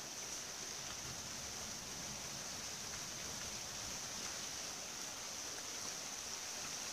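Rain falling steadily, an even hiss with no distinct drops or breaks.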